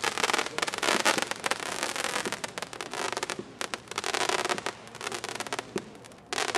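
Wolff Black Label 'Black Bird' consumer firework going off in a dense run of rapid crackling pops, thinning out and picking up again, with a louder cluster near the end.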